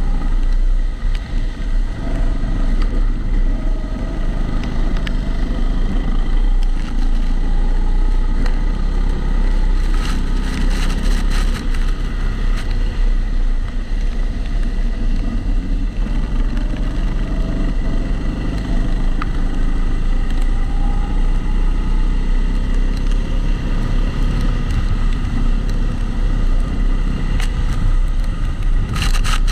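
Kombikart Eco rental kart running on track, heard from the onboard camera in its waterproof housing. The engine pitch rises and falls with the throttle over a heavy low rumble, with a regular extra noise that comes from the camera housing.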